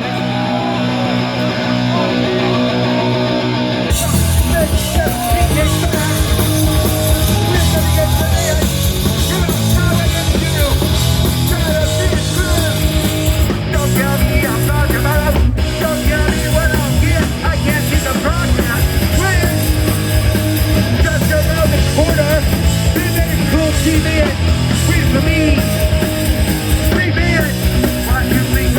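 Punk rock band playing live and loud. The first few seconds are thinner, then the full band with drums and bass crashes in about four seconds in and drives on at a fast, dense pace.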